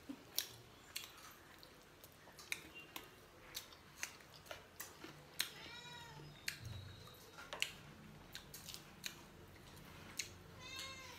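Quiet eating sounds: lip smacks and small mouth clicks as two people chew roti and curry. A short high call that rises and falls is heard about halfway through, and another near the end.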